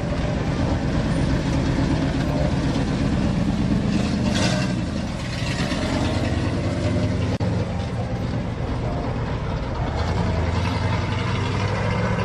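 A car engine running with a steady, low rumble, and a brief rushing noise about four seconds in.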